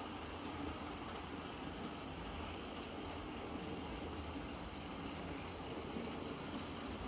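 Model locomotives running round a layout: a steady electric-motor whir with the rumble of wheels on the track.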